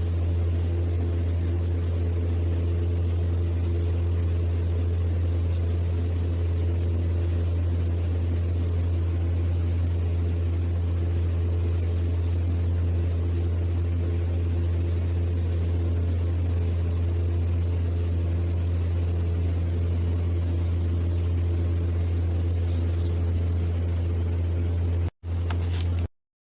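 A steady low hum, unchanging throughout, with a few fainter steady tones above it; it cuts out for an instant near the end and comes straight back.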